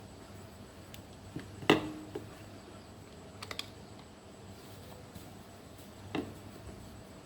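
A few scattered light knocks and clicks, the loudest about two seconds in, over a faint steady hum.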